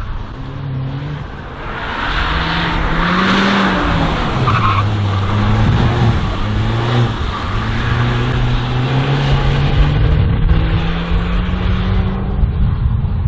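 Race car's engine at high revs through a slalom course, its pitch climbing and dropping repeatedly as the driver accelerates, brakes and shifts, with tyres squealing through the turns in the first few seconds. Later the revs climb steadily on a longer run.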